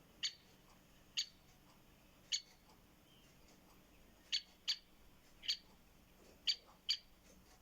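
Great spotted woodpecker giving its sharp single-note call, about eight short calls spaced irregularly, some in close pairs.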